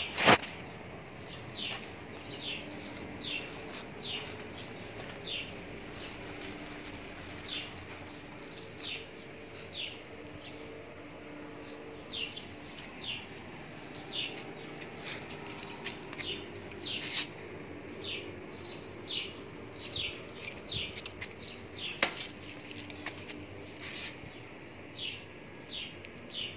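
A small bird chirping over and over in short, high, falling chirps, roughly one every half second to a second. A sharp click comes right at the start and another about 22 seconds in.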